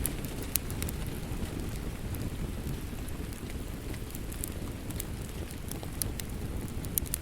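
Wood fire burning in a fireplace: a steady low rumble of flames with scattered sharp crackles and pops, a louder pop about half a second in and another near the end.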